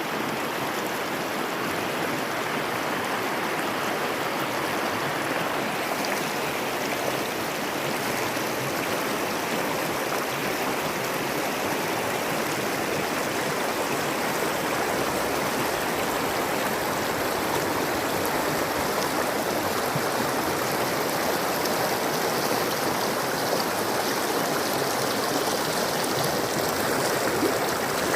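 A river's water flowing, a steady even rush of moving water.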